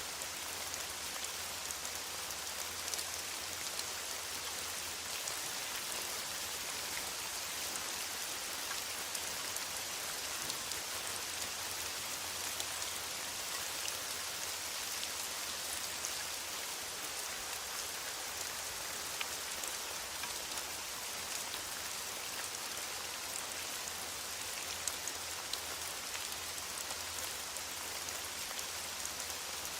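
Steady rain falling in a forest: an even hiss dense with fine, scattered drop ticks.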